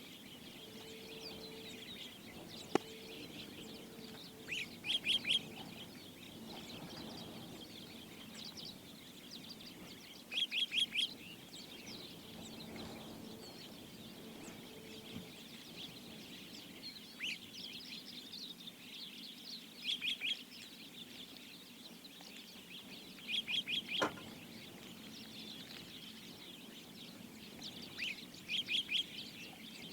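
Wild birds calling: a short run of three or four quick, high notes repeats every few seconds over a steady background of many smaller chirps. Two sharp clicks sound, one early and one about two-thirds of the way in.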